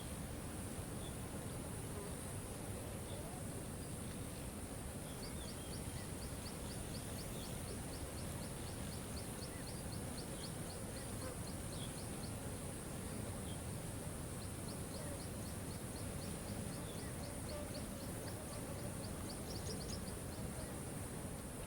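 Waterfall rushing steadily, with a bird trilling rapid short high notes, about four a second, in two long runs, and a few scattered chirps.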